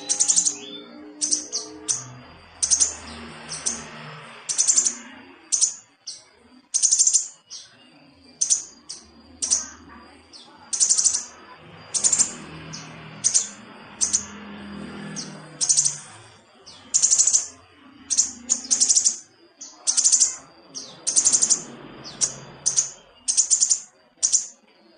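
Scarlet minivet giving repeated short, high, sharp chirps in quick clusters, about one cluster every second.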